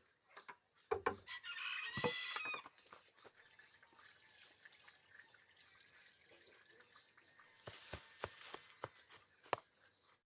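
A rooster crows once, starting about a second in and lasting about a second and a half. Scattered sharp knocks sound around it, with a cluster of them near the end.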